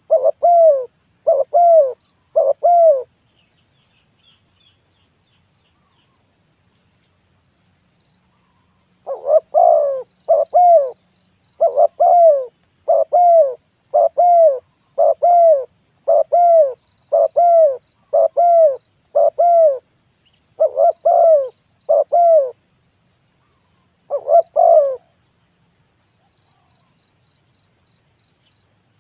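Spotted dove cooing: a steady series of short coos, about one a second, each note rising then falling. It gives a few coos at the start, pauses for several seconds, then coos again for about fifteen seconds before falling silent. A small bird chirps faintly during the pause.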